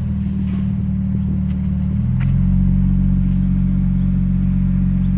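Kia Stinger's exhaust with a bimodal system, held at steady low revs with a deep, even drone. The note steps up slightly and gets a little louder about two seconds in.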